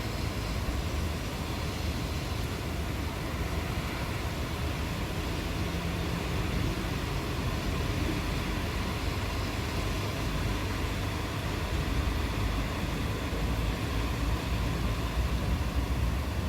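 Steady rain with a low, continuous rumble of distant thunder under it, the rumble swelling near the end.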